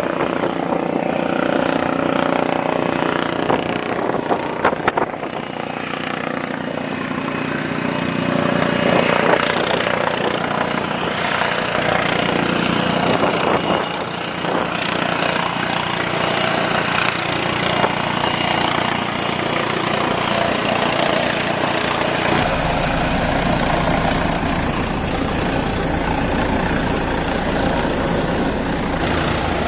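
Helicopter rotor and engine noise as the helicopter closes in over the ship. It is steady throughout, and its low rumble grows stronger about two-thirds of the way through as it comes nearer.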